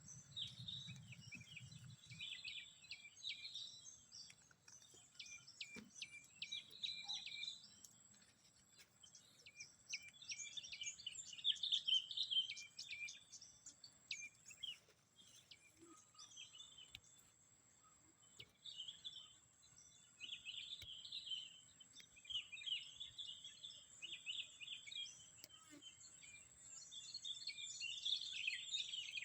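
Wild birds chirping in repeated bursts of short high calls, busiest about a third of the way in and again near the end, over a thin steady high-pitched tone.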